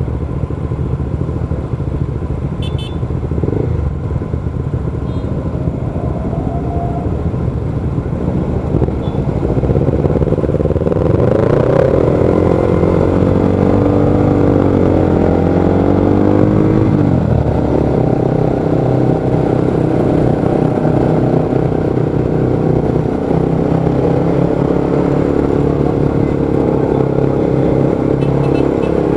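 Motorcycle engines in slow city traffic, running steadily. From about ten seconds in, the sound gets louder and the engines rise and fall in pitch as they speed up and slow down for several seconds before settling again.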